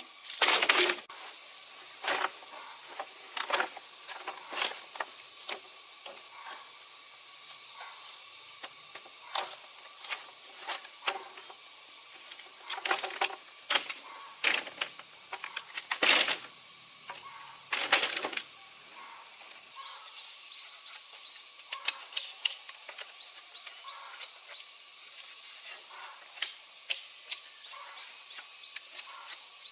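Scattered sharp knocks and clatters at an uneven pace, with louder ones about half a second in and again around the middle, over a steady high hiss.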